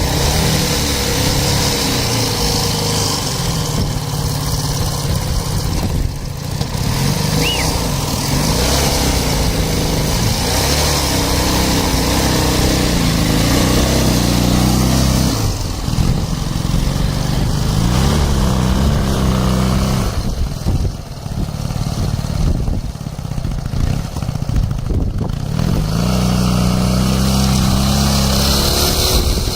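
Ural motorcycle's air-cooled flat-twin engine running, its revs rising and falling several times.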